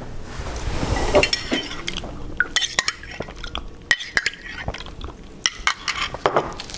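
A metal spoon clinking and scraping against tableware, a run of short sharp clinks at an irregular pace.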